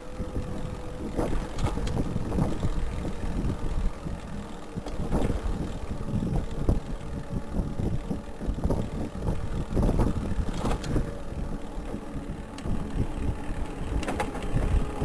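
Wind rumbling on the microphone over the steady noise of city street traffic, with frequent small knocks and rattles throughout.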